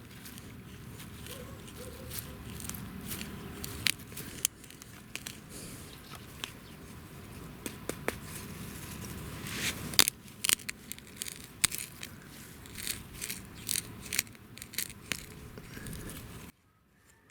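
Dry wood and plant material being handled and worked by hand: irregular crackling, scraping and small snaps, with one sharp crack about ten seconds in. The sound drops away shortly before the end.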